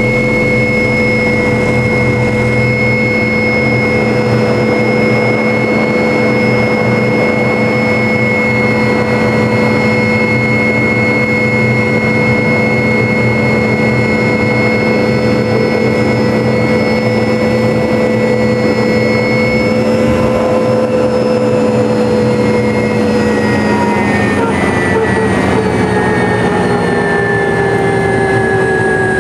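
MD500 helicopter's turboshaft engine and rotor system running with a steady whine. In the last several seconds the whine drops gradually in pitch.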